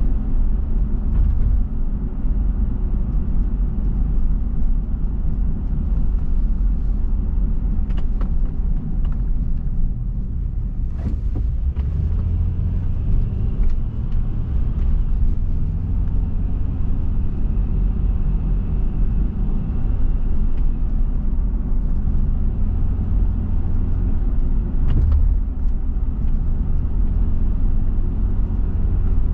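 Car driving on a road: a steady low rumble of tyres and engine, with a few faint clicks.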